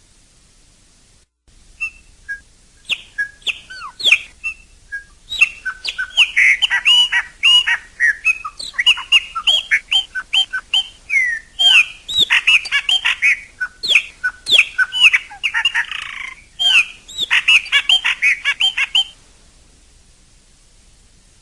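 Chopi blackbird singing: a few separate whistles, then a long rapid run of sweeping, varied whistled notes that stops abruptly near the end.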